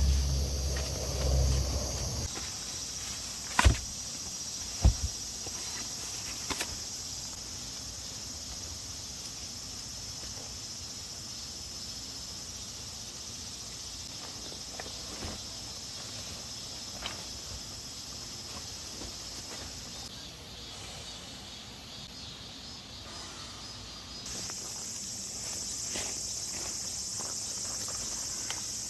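Steady high-pitched chorus of summer insects buzzing outdoors, its tone shifting a few times, with two sharp knocks about four and five seconds in.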